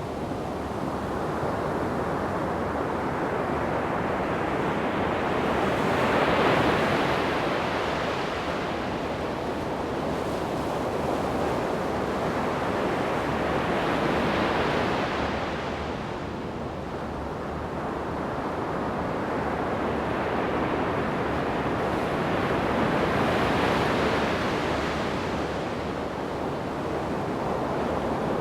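Ocean surf breaking on a sandy beach. The rush of the waves swells and fades three times, about eight seconds apart.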